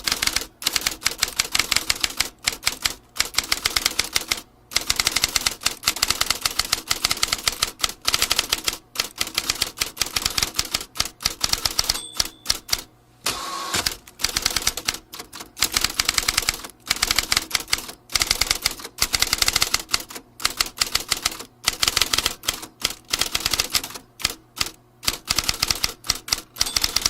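Vintage typewriter being typed on fast, its keys striking in quick runs of clicks with short pauses between bursts.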